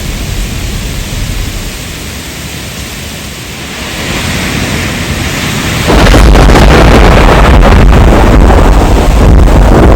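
Rain falling in a thunderstorm, a steady hiss over a low thunder rumble. About six seconds in it cuts suddenly to a much louder rush of rain with a heavy deep rumble.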